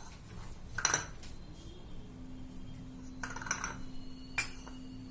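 Kitchen utensil clinking against a mixing bowl: one clink about a second in, a quick cluster of clinks around three seconds, and one more near the end.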